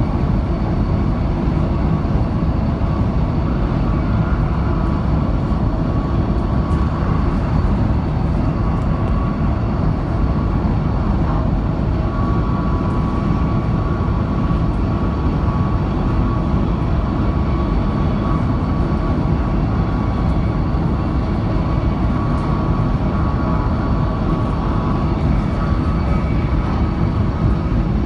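High-speed train running at speed: a steady, loud rumble with a faint whine on top, unchanging throughout.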